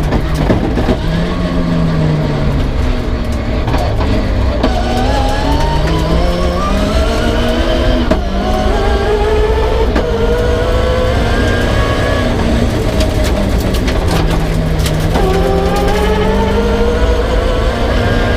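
Peugeot 306 rally car's engine being driven hard on a stage, continuously loud, its pitch climbing, dropping back at each gear change and climbing again, with scattered sharp clicks and knocks.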